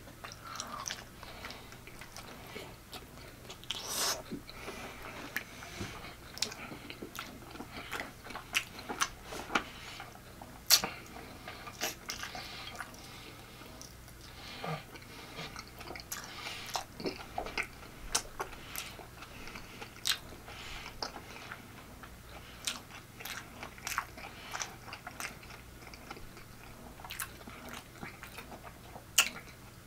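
A man chewing and biting into barbecue pork-chop tacos in soft flour tortillas, close to the microphone, with frequent sharp, wet mouth clicks between quieter chewing.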